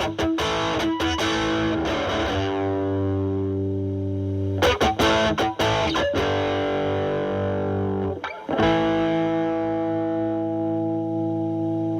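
Stratocaster electric guitar through a Boss DS-2 Turbo Distortion pedal, turbo mode off and distortion at about 3, into a Marshall Valvestate amp's drive channel, with the guitar's volume rolled back so the distortion cleans up. Three groups of strummed chords, each left to ring; the last chord rings out and is cut off at the very end.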